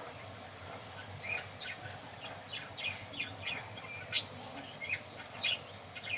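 Five-day-old baby budgie (budgerigar) chirping: a run of short, high, downward-sliding peeps, several a second, with sharper ones about four and five and a half seconds in.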